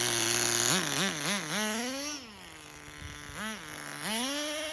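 Tamiya TGS-R nitro RC car engine running at steady high revs, then blipped up and down several times before dropping to a low idle, with another blip and a rise near the end. It does not want to hold a low idle.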